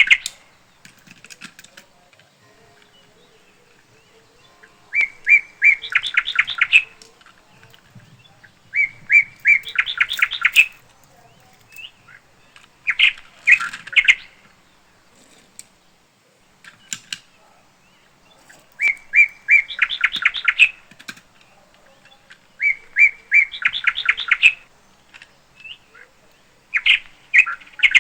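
Bird song: the same short phrase repeated about every four seconds, a few separate high notes running into a fast trill.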